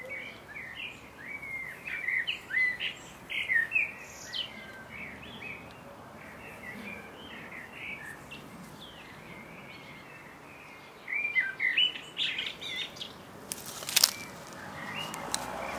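Small garden birds chirping and singing in quick, gliding notes, busiest in the first few seconds and again about eleven to thirteen seconds in, with one sharp click near the end.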